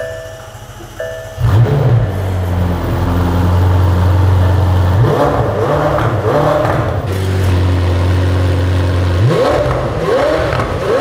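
McLaren Senna's twin-turbo V8 firing up about a second and a half in, then idling steadily, with short rev blips in the middle and near the end.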